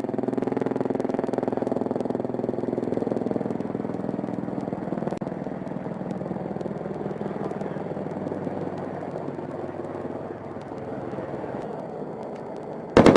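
AH-64 Apache helicopter's steady engine and rotor drone. Right at the end a rapid burst of fire from its 30 mm chain gun starts abruptly, much louder than the drone.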